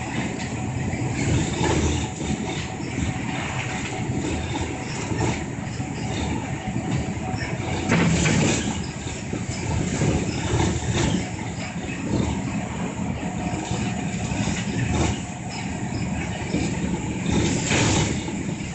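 Inside a moving city bus: steady engine and road noise, with short rattles and knocks, the loudest about 8 seconds in and near the end.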